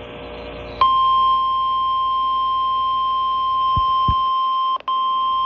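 NOAA Weather Radio's 1050 Hz warning alarm tone: one steady, loud, high beep that starts about a second in and drops out for an instant near the end. This tone announces a warning bulletin, here a severe thunderstorm warning.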